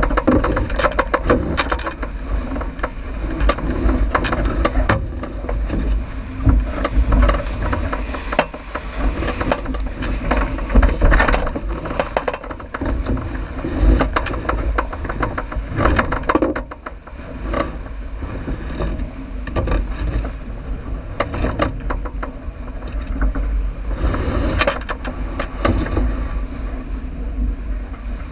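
On board a J80 sailboat under way downwind: wind buffeting the microphone and water rushing along the hull, with frequent knocks and rattles.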